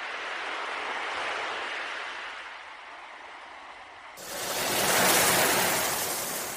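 Ocean waves washing in, in two swells: a softer one, then about four seconds in an abrupt change to a brighter, hissier wave that is the loudest, peaking about a second later and fading.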